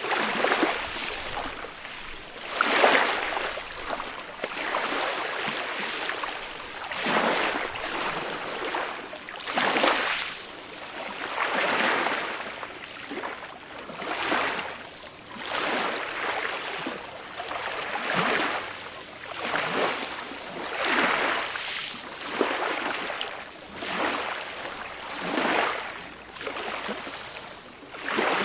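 Small, gentle sea waves washing up a beach, a soft hiss of surf rising and falling every two seconds or so.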